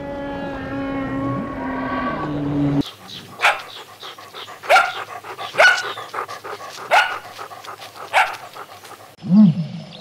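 Humpback whale song, a held pitched call, cutting off about three seconds in. Then a dog barking about five times, roughly a second apart. Near the end a short, low call from another animal begins.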